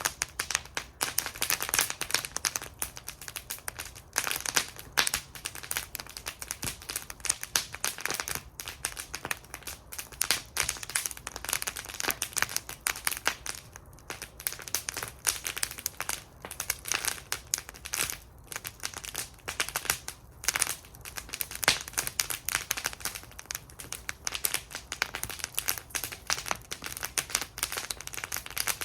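Wood fire burning in a fire bowl, crackling and popping continuously with frequent sharp snaps.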